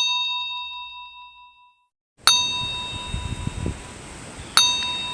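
A bell-like chime rings three times, each strike on the same clear tone and slowly fading. Wind noise, with low gusts on the microphone, comes in with the second strike.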